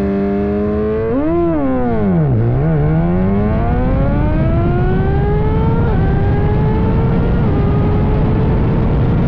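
Suzuki GSX-R1000 sport bike's inline-four engine running. It is blipped up and down once about a second and a half in, drops low, then climbs slowly and steadily in pitch, with small steps near six and seven and a half seconds.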